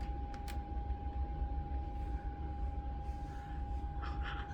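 Room heater running: a steady low rumble with a constant high-pitched tone over it, and two faint clicks about half a second in.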